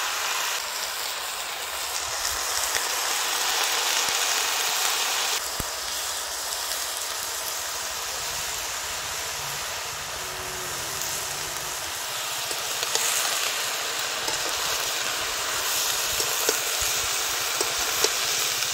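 Mixed vegetables sizzling in hot oil in a wok, a steady hiss, with a few clicks of a metal spatula against the pan near the end as they are stirred.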